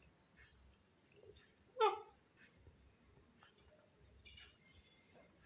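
Steady high-pitched chirring of crickets, with a pet parrot giving one short rising squawk about two seconds in and a fainter call a little after four seconds.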